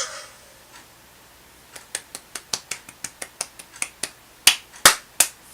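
Music cuts off, then after a short quiet comes a quick run of sharp clicks from laptop keys being typed, about five a second, with three louder clicks near the end.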